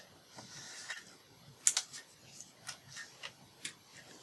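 Light clicks and taps of paper and small craft pieces being handled on a tabletop, with a brief soft rustle near the start.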